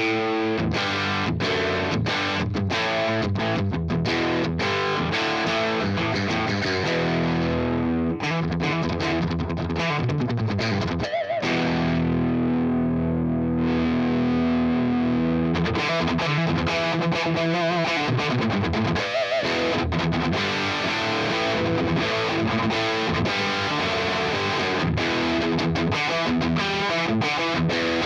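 Les Paul-style electric guitar played with distortion through a Fender Blues Junior IV 15-watt tube combo amp. The amp is captured through a Suhr Reactive Load and a 4x12 Vintage 30 cabinet impulse response instead of a miked speaker. Picked lines, with a chord left ringing for a few seconds about halfway through before the playing picks up again.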